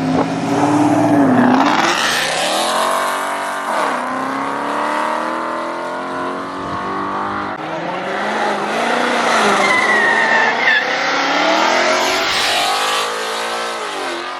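Ford Mustang doing a burnout: the engine revs up and down repeatedly, dipping and climbing several times, over continuous tire squeal.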